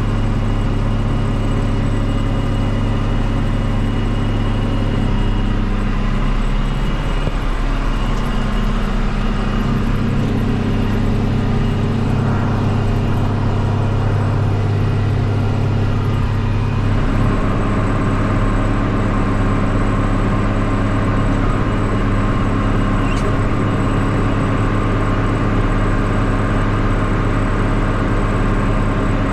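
Farm tractor engine running steadily under load, its note shifting slightly about seven seconds in and again about seventeen seconds in.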